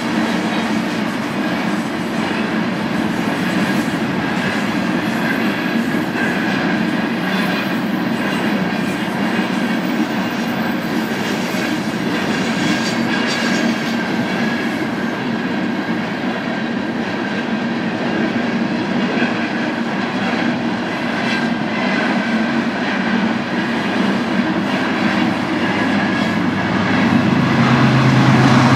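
Freight cars of a BNSF unit train rolling past with steady wheel and rail noise and a thin, steady squeal above it. Near the end a low steady hum grows louder.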